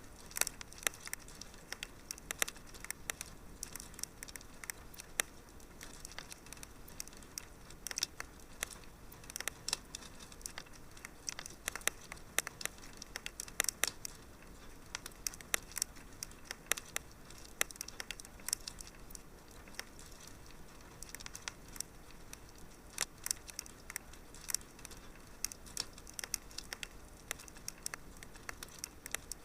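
Wood fire in a fireplace crackling, with many irregular sharp pops and snaps over a low steady hiss.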